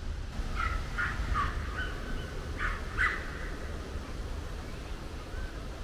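A bird calling outdoors: a quick series of short, squawky calls in the first three seconds, a fainter call near the end, over a steady low rumble of wind on the microphone.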